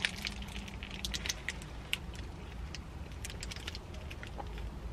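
Close-up chewing of a sub sandwich, with many small irregular crackles and clicks and some paper-wrapper rustling, over a steady low hum.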